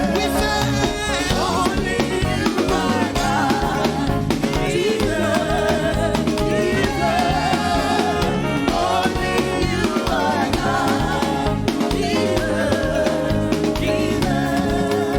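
Live gospel praise-and-worship music: voices singing over a band with a steady beat.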